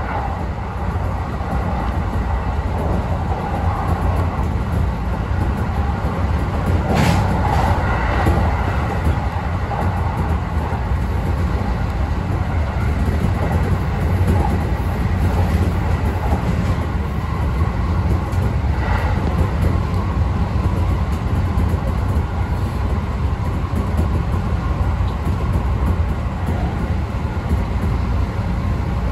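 Kintetsu express train running along the line: a steady low rumble of wheels on rail and traction equipment, heard from inside the car, with a few short sharp knocks about seven, eight and nineteen seconds in.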